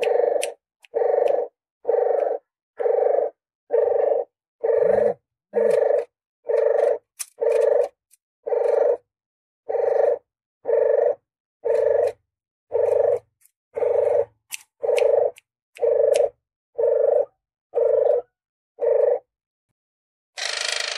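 Puter geni (ringneck dove) lure call: short, low coos repeated evenly about once a second. The coos stop near the end, and a hissier, brighter call begins just before the close.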